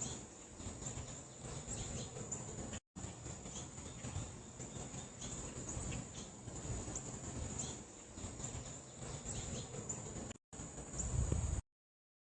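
Crickets or other insects chirping in a steady high-pitched chorus over a low outdoor rumble. The sound drops out briefly twice and cuts off shortly before the end.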